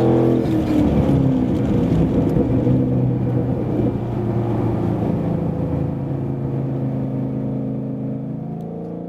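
Ford Mustang GT's 5.0-litre V8 through a Borla performance exhaust: the revs drop about a second in, then it runs at steady revs, slowly getting quieter.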